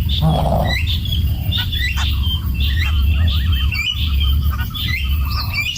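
Bird chirping: many short, high chirps, some sliding up or down, repeating throughout, over a steady low rumble.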